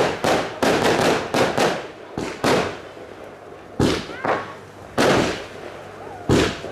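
Fireworks going off: a quick run of bangs and crackles for about two seconds, then four or five single loud shell bursts spaced about a second apart.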